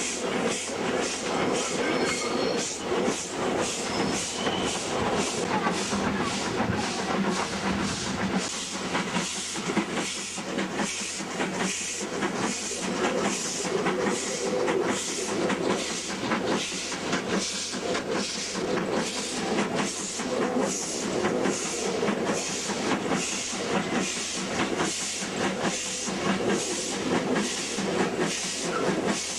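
Double-headed W-class steam locomotives under way: a steady, even chuffing exhaust beat about twice a second over continuous steam hiss and rail noise.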